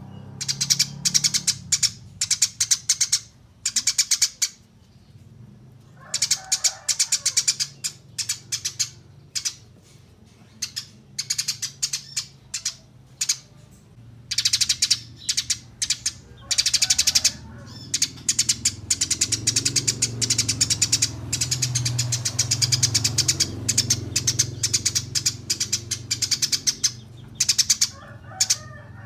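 Eurasian tree sparrows chirping in rapid runs of quick repeated chirps, bursts broken by short pauses. A low hum sits underneath, stronger in the second half.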